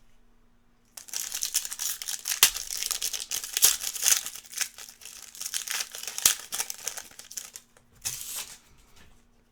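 Foil wrapper of a Topps Cosmic Chrome baseball card pack being torn open and crinkled: dense crackling starts about a second in and goes on for several seconds, with a short crinkle near the end.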